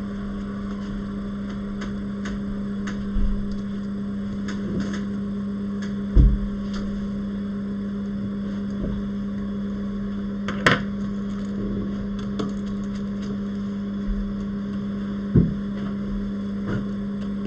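Steady hum of electrical bench equipment running, with a few light knocks and clicks of tools at the workbench, the sharpest about eleven seconds in.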